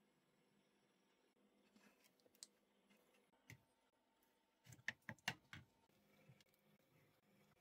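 Quiet room with a few faint, light clicks and knocks, and a quick cluster of sharper clicks about five seconds in.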